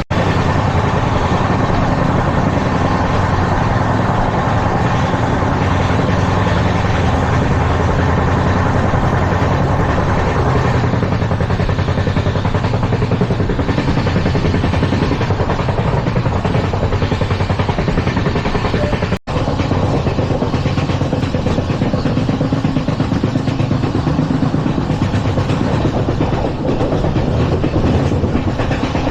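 Indian Railways LHB passenger coach running at speed: a steady, loud rumble and rattle of wheels on rail. The sound cuts out for an instant about two-thirds of the way through, then carries on unchanged.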